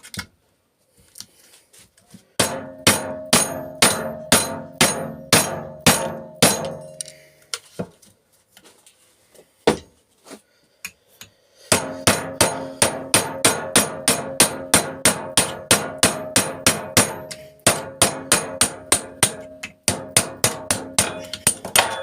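Hammer pounding on metal, about three blows a second, each one ringing, in two long runs with a pause of a few seconds between. The blows knock pieces out of a dismantled microwave part for scrap.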